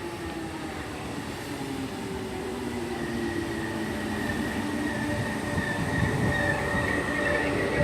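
Merseyrail Class 507 electric multiple unit pulling into the station, growing steadily louder. A tone slowly falls in pitch as it slows, and a high squeal strengthens over the last few seconds.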